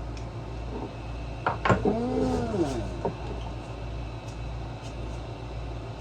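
A few sharp clicks of hand tools on metal about a second and a half in, then a short vocal sound that rises and falls in pitch and lasts about a second. A steady low hum runs underneath.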